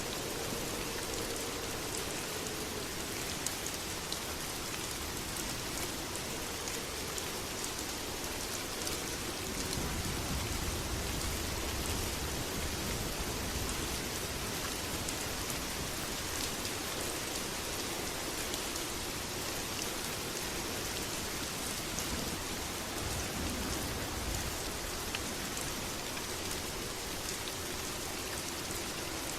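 Steady heavy rain falling, a dense even hiss with fine drop patter. A low rumble swells about a third of the way in and again briefly later.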